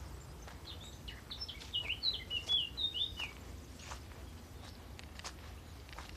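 A songbird sings one quick phrase of varied chirping notes, starting about half a second in and lasting about two and a half seconds. A few faint sharp clicks follow.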